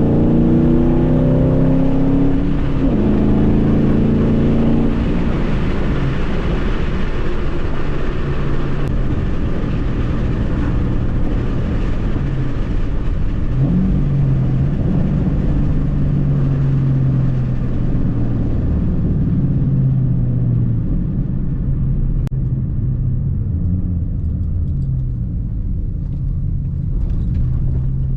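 A 2010 Ford Mustang GT's straight-piped 4.6-litre three-valve V8 under way: the exhaust note climbs in pitch under acceleration, drops at a gear change about three seconds in and climbs again. About halfway through the pitch changes once more, then it settles into a steady low drone while cruising.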